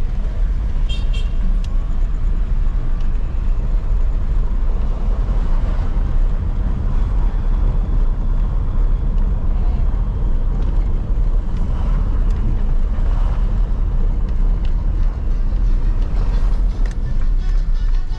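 Steady low road and engine rumble inside the cabin of a Jeep Renegade with a 2.0 turbodiesel engine, cruising on a town road.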